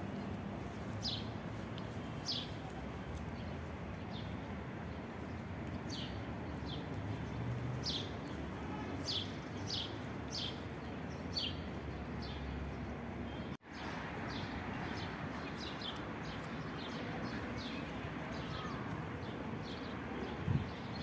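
Birds chirping outdoors, short high calls every second or so over steady background noise, with a brief low thump near the end.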